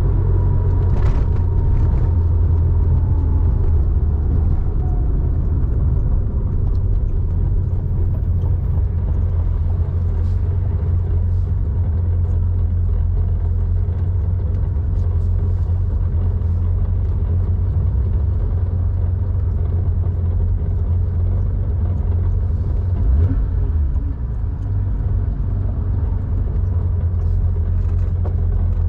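1987 Porsche 911's air-cooled 3.4-litre flat-six running steadily through a Scart two-into-one-out muffler on the move, a deep steady exhaust rumble, easing briefly about three-quarters of the way through.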